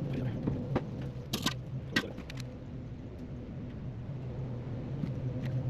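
Hand pump pushing gear oil into a truck's rear axle, giving a few sharp, irregular clicks and knocks in the first couple of seconds over a steady low hum.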